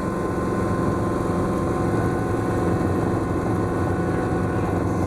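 Schweizer S-300CBi light helicopter in flight, heard from on board: its four-cylinder Lycoming piston engine and rotors give a steady, even drone.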